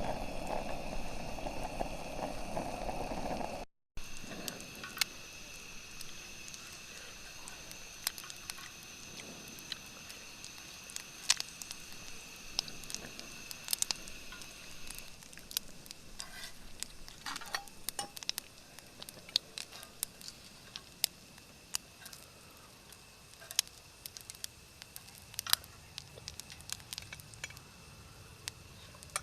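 Cooking over a campfire: scattered sharp crackles and pops, with a faint steady high-pitched hiss that fades out about halfway through. A louder, noisier stretch in the first few seconds cuts off abruptly.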